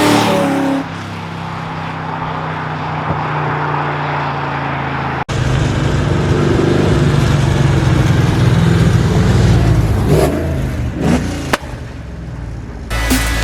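1998 Mustang GT's 4.6-litre V8 with a Comp Cams stage 2 camshaft running steadily. After an abrupt cut about five seconds in it runs louder, with brief rises and falls in revs around ten seconds in. Music begins near the end.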